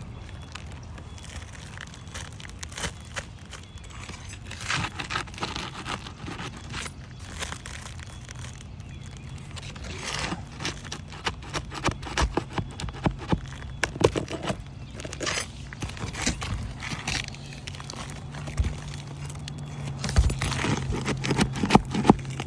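Hands-on work on asphalt roof shingles: scraping and crackling with a run of sharp clicks and knocks, densest in the middle, as shingles are lifted and worked over.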